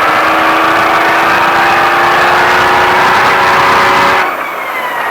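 Ford Baja truck's engine under hard acceleration, its pitch climbing steadily, then falling away suddenly about four seconds in as the throttle is lifted.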